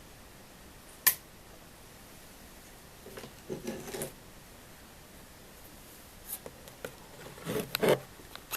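A sharp click about a second in, then two short spells of rustling and clattering as small objects on a workbench are moved about, about three seconds in and near the end: someone rummaging in search of a tube of thermal paste.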